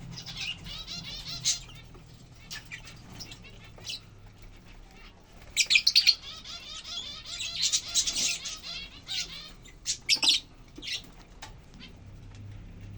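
Lovebirds chattering in rapid, high-pitched twitters, with a cluster of loud, sharp squawks a little before halfway and another burst about ten seconds in.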